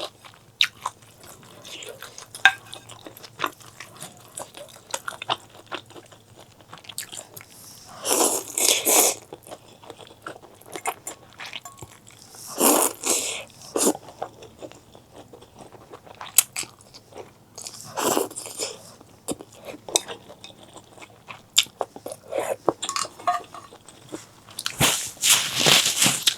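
Close-miked eating sounds: wet chewing and biting with many small clicks, broken by four louder noisy bursts of a second or two.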